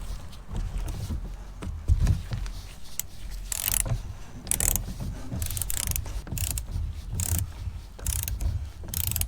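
Hand ratchet on an extension being worked in repeated strokes, each stroke a short run of pawl clicks, as a fastener is run in and tightened.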